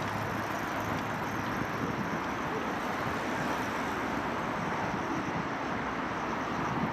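Steady wash of road traffic noise, an even hiss-like hum with no single vehicle standing out.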